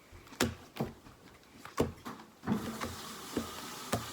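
Playing cards slapped down onto piles on a table in a fast Dutch Blitz game: about six sharp slaps at uneven intervals.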